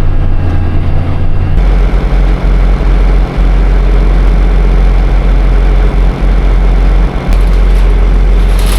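A vehicle engine running steadily while driving, with loud low engine hum; the low note drops to a deeper tone about one and a half seconds in.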